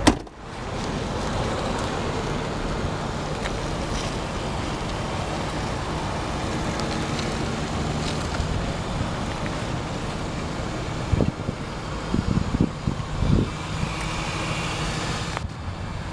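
1995 Ford Thunderbird's 4.6-litre V8 idling steadily, with some wind noise on the microphone. A single sharp thump right at the start, and a few irregular bumps near the end.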